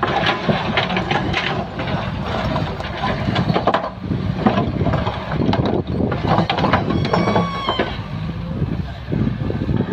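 Excavator's diesel engine running under load, with repeated clanks and knocks from the bucket and arm as it works the soil, and a brief high squeal about seven seconds in.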